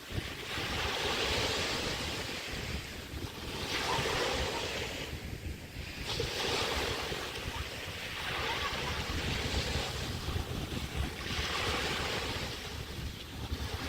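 Small bay waves breaking on a beach, the surf swelling and fading every two to three seconds, with wind rumbling on the microphone.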